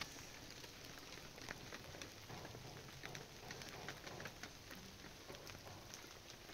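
Faint, steady rain, with scattered ticks of drops landing on a surface.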